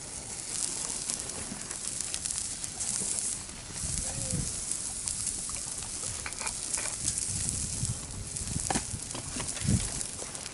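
Wood fire in a fire pit crackling with a steady hiss and scattered small snaps, with meat sizzling over the flames.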